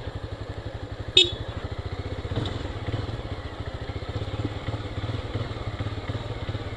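Single-cylinder Honda motorcycle engine running steadily at low revs with an even pulsing beat. About a second in there is one sharp, short metallic clack.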